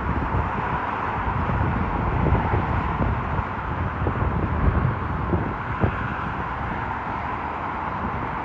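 Outdoor ambience beside an airport: a steady distant rumble of traffic and aircraft with a constant hum, and wind buffeting the microphone.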